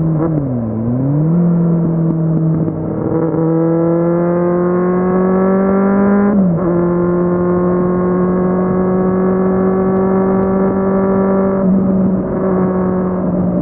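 Kawasaki Z750 inline-four engine pulling on the road: the revs dip and recover about a second in, climb steadily, then drop sharply at a gear change about six seconds in, and run fairly steady afterwards with another brief break near the end.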